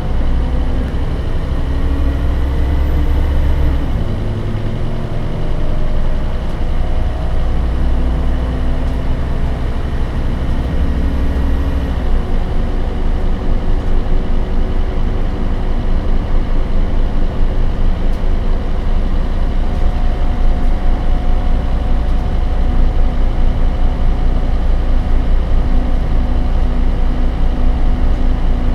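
Scania DC9 five-cylinder turbodiesel of a Scania K270UB bus with ZF Ecomat automatic gearbox, pulling with its pitch rising and then dropping at gear changes about four and twelve seconds in. After that the engine settles into a steady, evenly pulsing low run.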